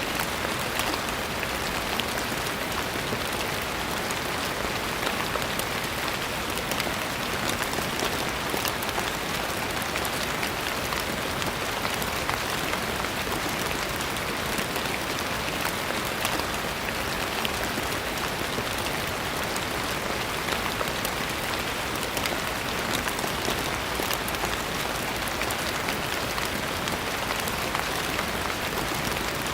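Steady rain falling on a surface: an even hiss of many fine drops ticking, with no change in strength.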